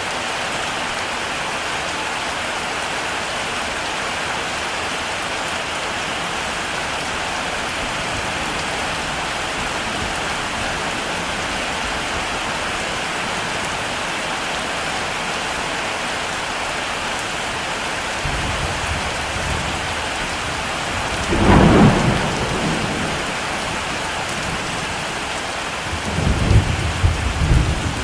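Heavy rain falling steadily, with thunder: a low rumble starts past the halfway point, a loud thunderclap about 21 seconds in, then more rumbling near the end.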